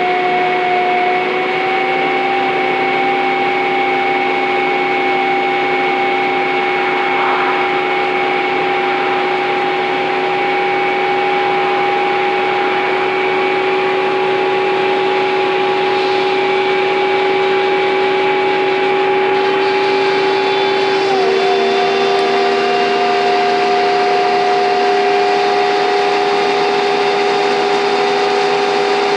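Scania N230UD double-decker bus engine working hard under load, with its steady hoover-like whine over a lower tone. The whine drops suddenly in pitch about two-thirds of the way through, then slowly climbs again.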